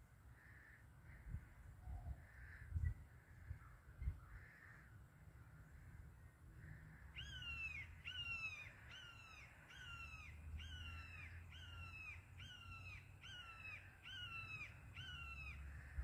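A bird calling: from about seven seconds in, a steady series of about a dozen downslurred call notes, roughly two a second. Before it come a few fainter calls and some low thumps.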